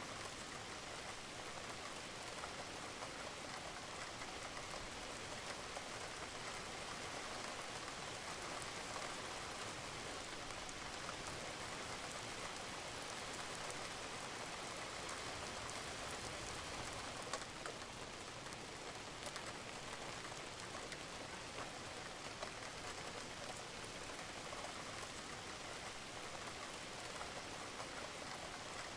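Steady rain falling on a roof, an even dense patter with scattered individual drops.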